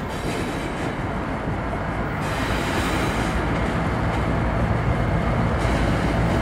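Freight train approaching with its diesel locomotives running, a low steady engine drone and rail rumble growing louder as it nears.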